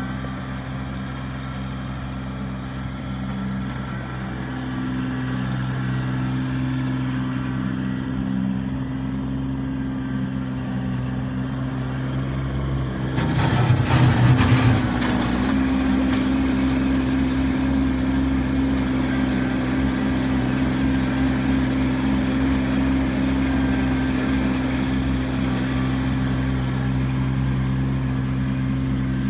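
Kubota B2650 compact tractor's diesel engine running steadily, with a louder, rougher stretch of about two seconds about halfway through, after which it runs a little higher.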